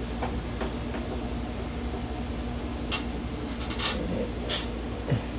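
A few light, sharp clicks and taps, spaced irregularly, from work on an engine being reassembled, over a steady low hum.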